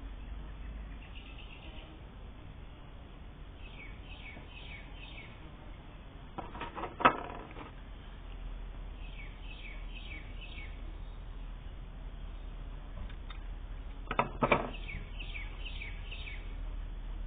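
Small birds chirping in quick runs of short falling notes, repeated several times. Twice, about seven and fourteen and a half seconds in, a brief rasping noise is the loudest sound, over a steady low hum.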